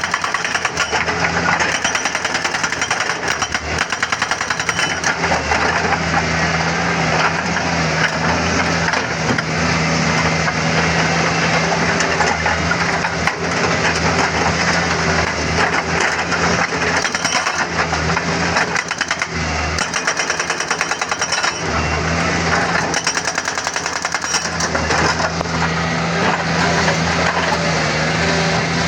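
Doosan DX140W wheeled excavator's diesel engine running steadily under load, with a dense run of knocks and rattles from the machine working on stone.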